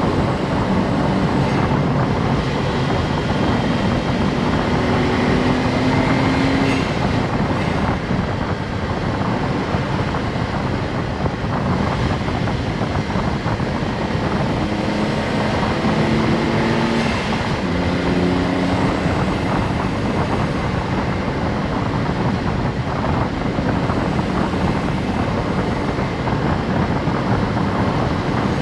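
Honda S660's small turbocharged three-cylinder engine running on the move, under steady road and wind noise. The engine note rises several times as the car accelerates.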